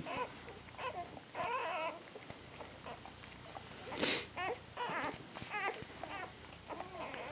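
Eight-day-old puppies crying and squeaking in a litter, a series of short, high, wavering squeals that come and go.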